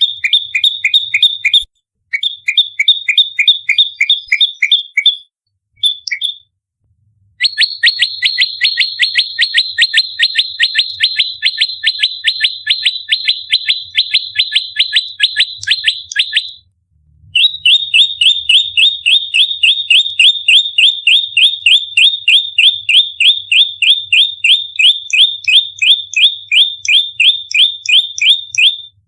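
Prenjak lumut in its fighting song: long loud runs of sharp, rapid-fire notes repeated several times a second. A few short bursts come first, then two long unbroken runs separated by a brief pause. This is the tight 'nembak' agitated calling used as a bird lure.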